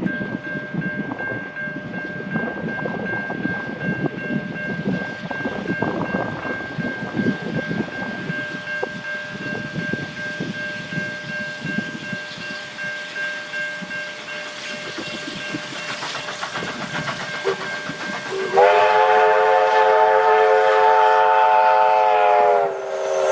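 Victorian Railways K class steam locomotive K153 running with an irregular clatter, then its steam whistle gives one long blast of several notes about eighteen seconds in, lasting some four seconds, and a second blast starts just before the end.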